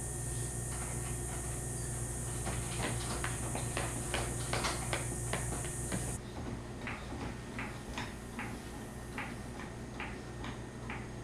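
Socket ratchet clicking in a run of short ticks as the 10 mm skid plate bolts are run back in, quick at first and then slower, about two a second. A steady high hiss cuts off suddenly about six seconds in.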